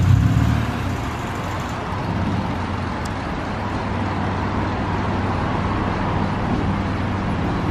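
Lexus IS350's 3.5-litre V6 running at low revs as the car creeps slowly forward under its own power, a little louder right at the start, then steady.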